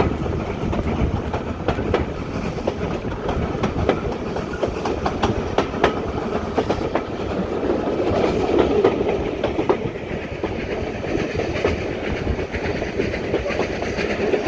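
Heritage steam train carriage running along the track, heard from on board: a steady rumble with wheels clicking irregularly over the rail joints.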